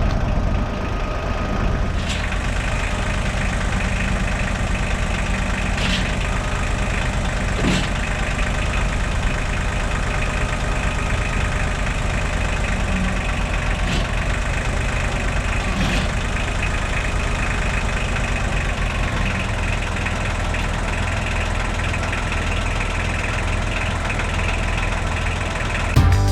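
An engine idling steadily, with a few brief sharp knocks heard over it.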